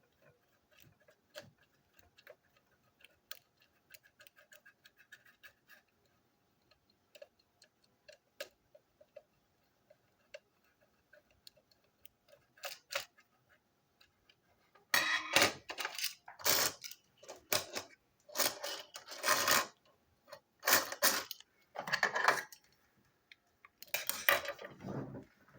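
Small plastic toy train parts clicking and tapping as they are handled. About halfway through comes a run of louder rattling and scraping bursts.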